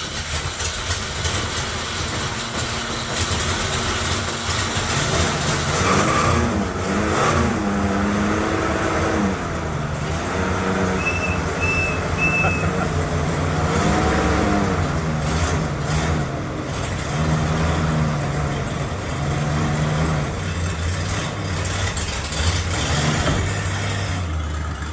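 Ford 302 small-block V8 running in a first start after years, its engine speed rising and falling as it is revved between spells of idle. Three short high chirps sound about halfway through.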